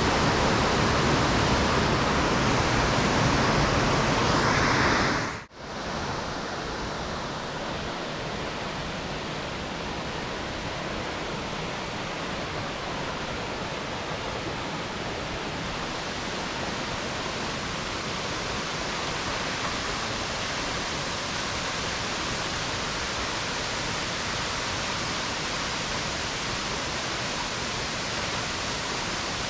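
Waterfall rushing steadily. About five seconds in it drops out for an instant, then carries on somewhat quieter.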